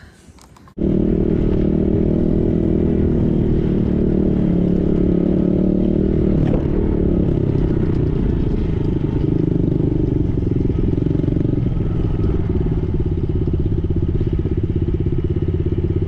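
Small dirt bike's engine running steadily close by, starting abruptly about a second in.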